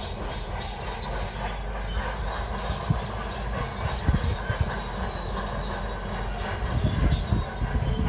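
Shantui crawler bulldozer at work: the diesel engine runs under load while the steel tracks grind, clank and squeal. Several heavy low thumps come through, the strongest near the end.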